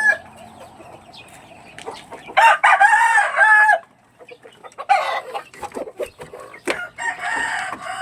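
Backyard chickens: a rooster crows about two and a half seconds in, one long call in three arched parts, with more calls and clucking from the flock after it.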